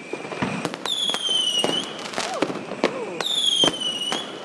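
Fireworks going off all around: two high whistles, each about a second long and dropping slightly in pitch, from whistling fireworks, over a scatter of sharp firecracker bangs.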